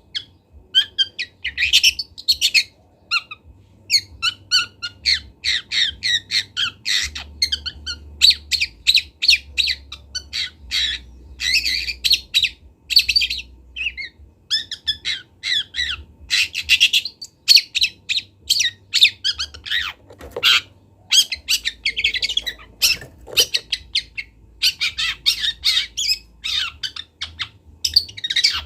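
Young long-tailed shrike (cendet) singing a fast, unbroken run of short chattering notes and harsh squawky calls, filled with mimicked phrases. The song breaks off briefly twice about two-thirds of the way through.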